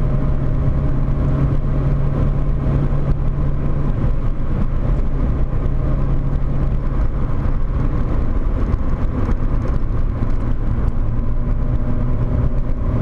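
Volkswagen Corrado 1.8 16V's inline four-cylinder engine pulling hard at steady revs under a dense rush of noise. Its note is strongest for the first few seconds, then eases and comes back a little lower near the end.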